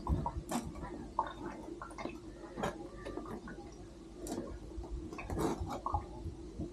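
Scattered small clicks and knocks of things being handled, over a steady low hum.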